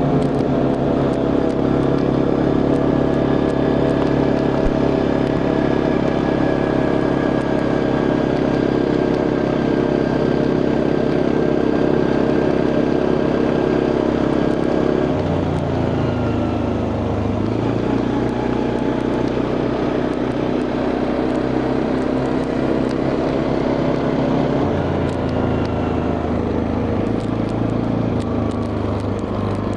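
Quad bike engine running steadily while riding, its pitch dropping about halfway through and shifting again near the end as the engine speed changes.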